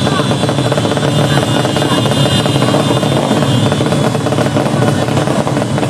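Tuned underbone racing motorcycle engine running loudly and steadily, with a fast even pulsing exhaust note.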